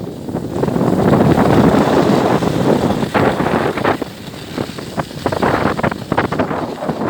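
Loud, gusting wind buffeting the microphone.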